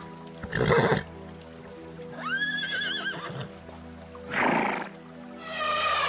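Animal calls over steady background music: a short harsh burst about half a second in, a high wavering call around two seconds in, another harsh burst past four seconds, and a high call near the end.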